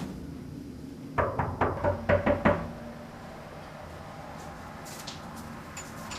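About six quick knocks in a row, between about one and two and a half seconds in, over quiet room tone.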